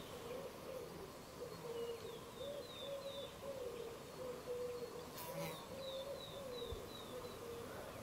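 Forest ambience: a songbird sings two phrases of short, descending high notes, five or six notes each, over a constant insect hum that wavers in pitch.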